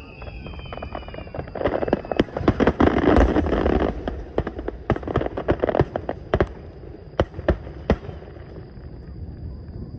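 Aerial fireworks bursting: a dense, crackling run of bangs about two seconds in, then single loud bangs spaced out that stop near the end. A falling whistle fades out at the start.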